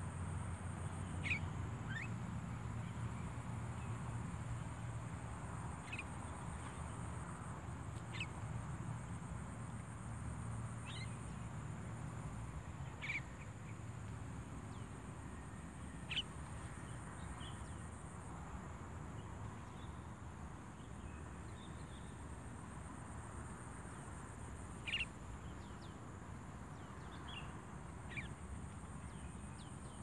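Short, sharp bird calls at irregular intervals of a few seconds, over a steady low rumble.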